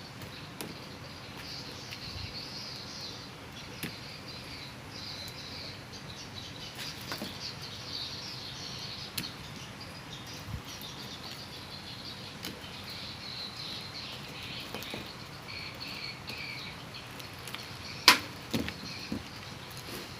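Continuous high-pitched chirping in the background, with a few short sharp clicks and taps; the loudest click comes about eighteen seconds in.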